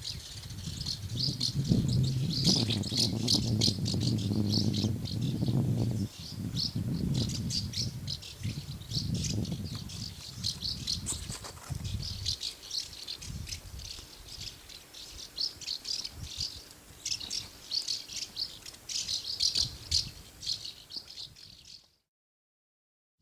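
Swallows twittering continuously, many quick high chirps overlapping in a rattling chatter. A low rumble runs underneath for the first half. The sound cuts off abruptly to silence about a second before the end.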